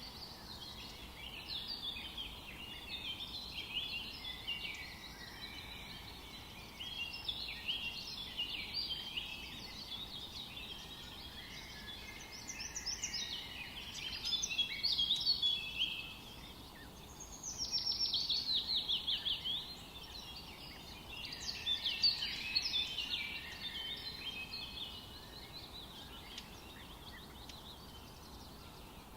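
Songbirds singing in a mixed chorus, many overlapping chirps and trills. About two-thirds of the way through comes a louder run of quick falling notes, and the singing thins out near the end.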